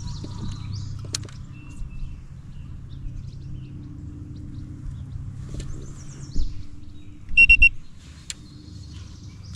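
Small birds chirping over a low steady rumble, with a quick, loud triple electronic beep about seven and a half seconds in and a low thump just before it.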